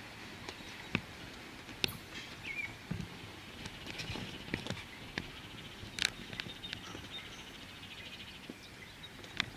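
Birds chirping, with a fast high trill in the second half, over faint outdoor background noise, and scattered irregular clicks and knocks.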